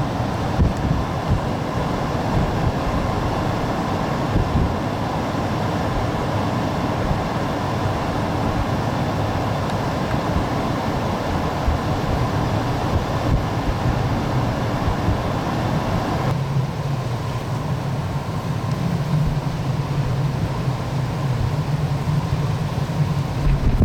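Strong, gusty wind buffeting the microphone: a steady rushing hiss over an uneven low rumble, the hiss easing a little about two-thirds of the way through.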